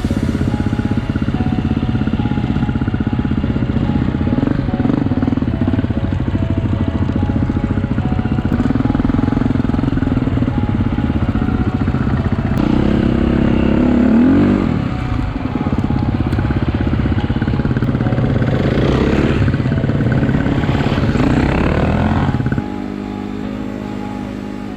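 Four-stroke enduro dirt bike engine running hard, with the revs rising and falling around the middle. Near the end it drops suddenly to a quieter, steadier sound.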